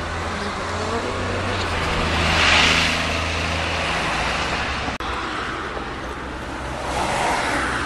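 A car passing close by on the road, its engine hum and tyre noise swelling to a peak about two and a half seconds in and fading, followed by steady traffic noise.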